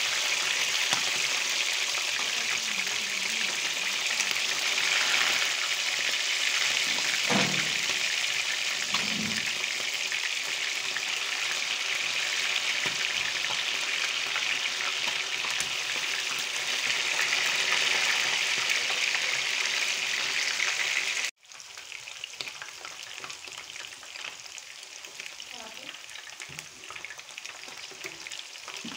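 Chicken pieces frying in hot oil in a frying pan: a steady sizzling hiss with crackles. About three-quarters of the way through, the sound cuts abruptly to a quieter sizzle.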